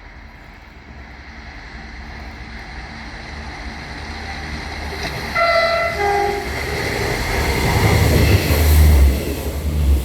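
A train approaching and passing, its rumble growing steadily louder to a peak near the end. About halfway through it sounds its two-tone horn: a short high note followed by a shorter lower one.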